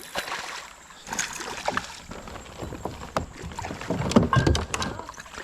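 Water splashing with irregular knocks and clicks against a kayak while a hooked smallmouth bass is fought on the line. The knocks bunch together about four seconds in.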